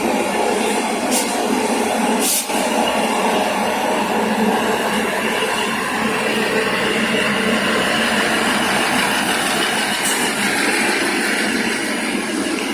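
A train running along the track with steady, loud wheel and running noise, and a few sharp clicks: one about a second in, one about two and a half seconds in, and one near the end.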